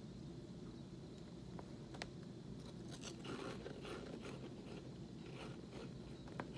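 A person biting into and chewing a crunchy baked cheese puff: faint, dry crunching, with most of the crunches coming in a cluster around the middle.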